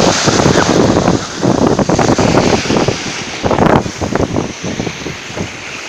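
Black Sea surf washing on the shore, with heavy wind buffeting the microphone in gusts.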